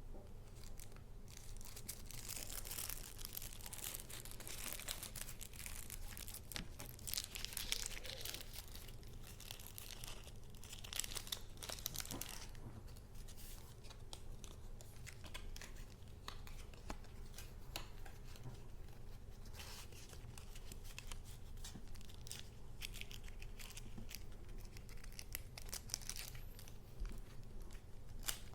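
Paper goods being handled: irregular rustling and crinkling of paper, with stretches of tearing, over a faint steady low hum.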